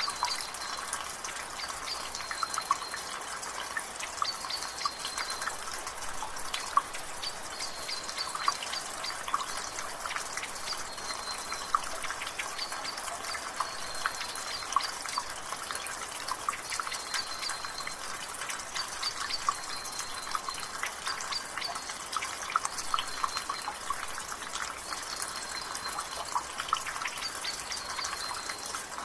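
Rain with water dripping from a gutter in steady, irregular drips. A bird repeats a short high call about every two seconds.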